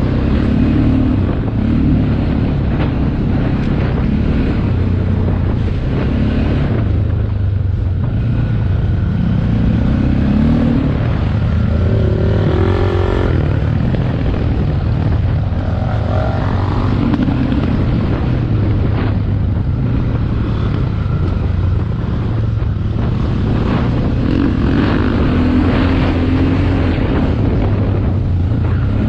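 Motocross motorcycle engine revving up and falling back again and again as the bike is ridden, over a steady low rumble.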